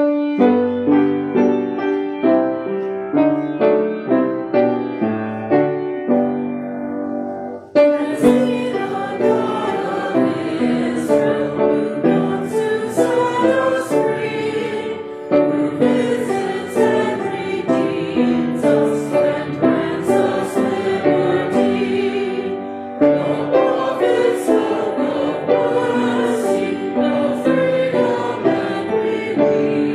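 Congregation singing a hymn with piano accompaniment, after a piano introduction of about eight seconds.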